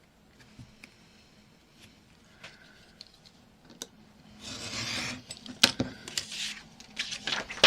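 Paper and card being handled on a craft table: a few light taps at first, then from about halfway scratchy rubbing and rustling with sharp clicks.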